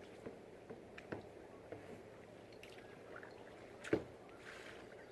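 Kayak paddling: soft water sounds from the paddle with a few sharp knocks, the loudest about four seconds in.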